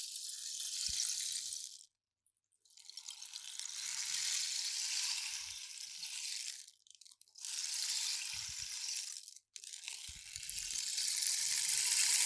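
A rainstick being turned over and over, its fill trickling down through the tube in a dense, rain-like patter. It comes as about four pours of two to four seconds each, separated by short pauses when the stick is flipped.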